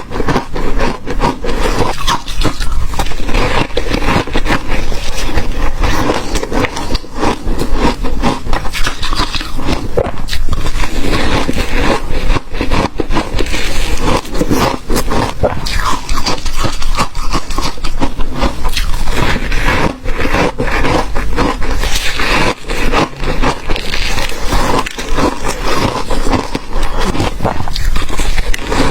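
Crunchy ice being bitten and chewed close to the microphone, a dense run of sharp cracks and crunches with no pause.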